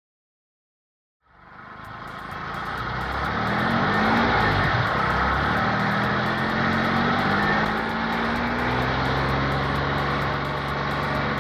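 Silence for about a second, then a vehicle engine fades in and runs steadily, its pitch creeping slowly upward under a steady hiss.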